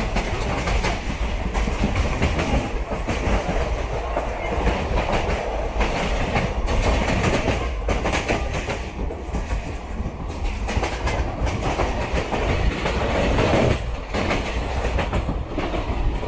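Express train's passenger coach running at speed, a steady rumble of steel wheels on the rails with an irregular clickety-clack of clicks over the track.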